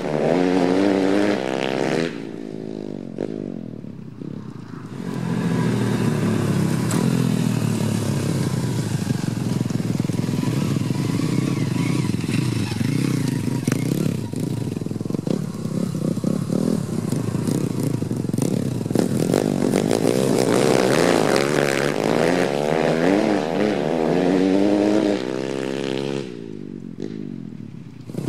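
Four-stroke single-cylinder dirt bike engine revving up and falling back again and again under hard riding. The engine eases off for a few seconds about two seconds in and again near the end.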